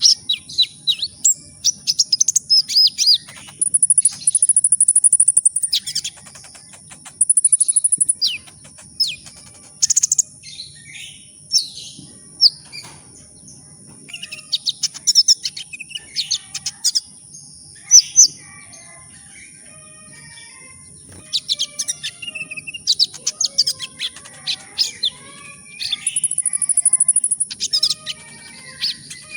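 Kolibri ninja, a small sunbird, singing a fast run of high, thin chirps and twittering notes, broken by short rapid trills a few times. A faint steady high tone runs underneath.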